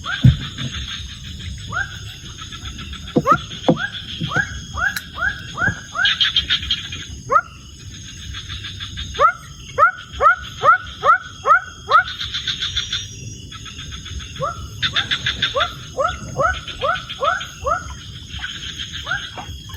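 A forest chorus of calling animals: runs of short rising chirps, several a second, over pulsing buzzy trills that start and stop in stretches.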